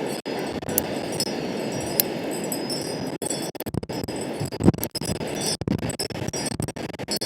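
Wind rushing over the microphone, with short, clear, high ringing tones that grow frequent from about three seconds in.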